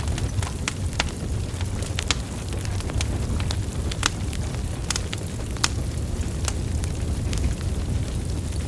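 Burning wood logs crackling: sharp, irregular pops and snaps, about two a second, over a steady low rumble of the flames.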